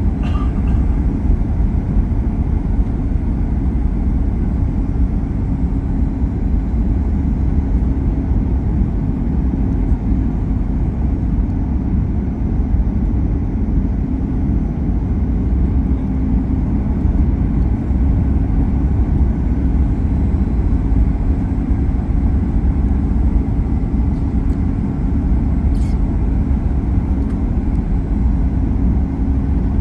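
Steady cabin noise inside a Boeing 737 MAX 8 in flight: the low rumble of airflow and the CFM LEAP-1B engines, with a faint steady hum running under it.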